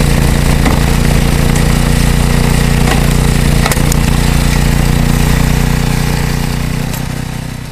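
Simplicity snowblower's small engine running steadily, fading away near the end.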